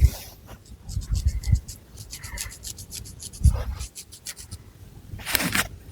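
Long fingernails scratching through thick long hair and across the scalp: a quick run of short, crisp scratches, then one longer rasping stroke near the end, with low dull thumps from the hand pressing on the head.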